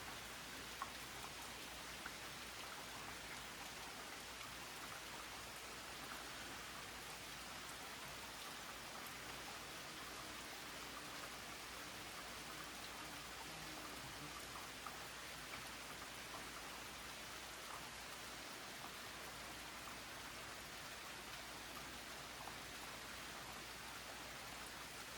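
Steady rain falling: an even hiss with scattered faint drip ticks.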